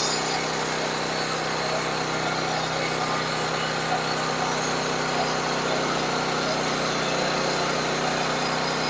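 Sawmill's small gasoline engine running steadily at a constant speed.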